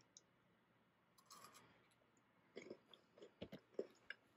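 Near silence with a few faint crunches of someone chewing Kit Kat wafer bars, coming in the second half.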